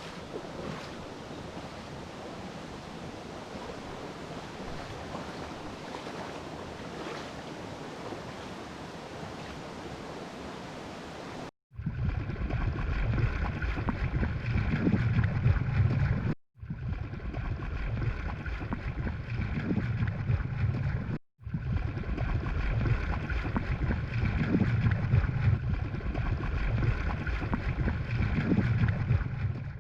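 Steady rush of a mountain stream's flowing water. After a cut about a third of the way in it turns louder and closer, with low surging rumbles, and it breaks off briefly twice more.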